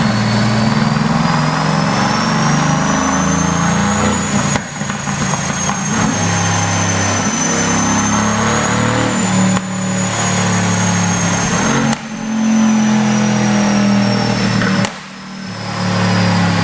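Mercedes-AMG GT S twin-turbo V8 exhaust, tuned for pops, revving in several long pulls. Each pull drops off abruptly about four times, and a sharp crack comes at the drop-off twice, near the 12- and 15-second marks.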